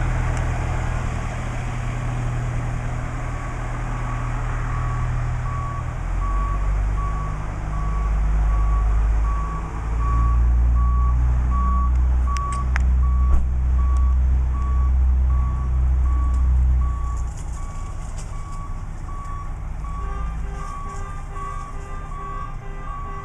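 Fire department ladder truck backing up, its reverse alarm beeping in a steady series over the heavy diesel engine, which works harder through the middle of the manoeuvre. Near the end a second beeping at another pitch joins in.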